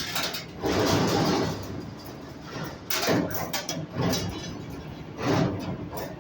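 Automatic CNC stirrup bending machine working steel reinforcing bar fed from a coil, with four bursts of mechanical noise about two seconds apart as it feeds and bends the bar.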